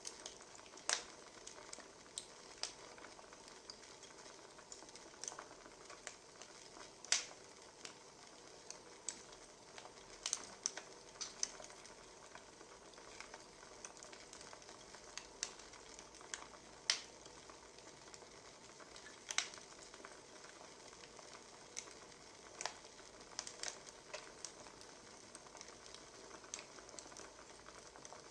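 Burning firewood crackling: irregular sharp pops and snaps over a faint steady hiss.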